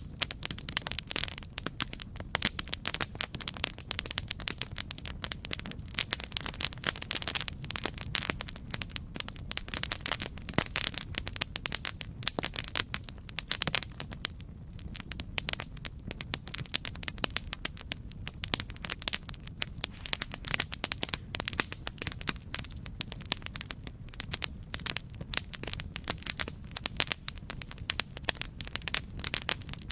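Campfire crackling: a dense, irregular stream of sharp pops and snaps over a low steady rumble of burning wood.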